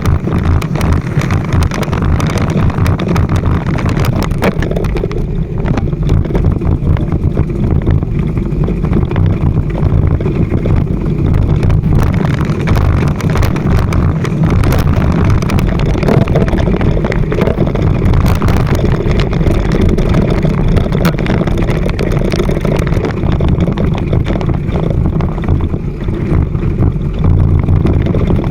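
Motorcycle engine running at steady low revs while riding, with wind rushing over the microphone.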